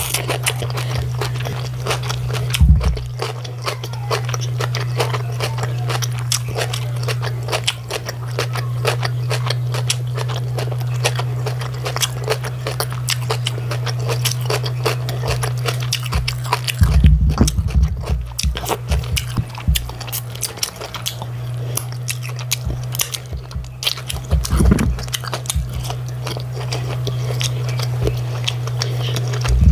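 Close-miked eating sounds: a person chewing rice and chicken stew, with wet mouth clicks and smacks and sucking at her fingers, over a steady low hum. A few dull low thumps come about 3 seconds in, around the middle, and again near the end.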